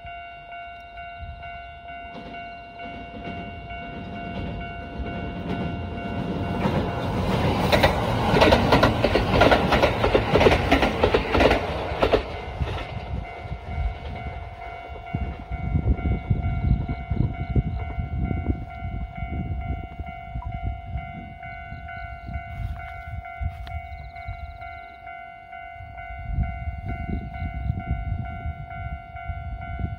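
A train running on the rails: a low rumble of wheels on track with a steady high whine underneath. It swells to its loudest for several seconds about a quarter of the way in, then settles back to an uneven rumble.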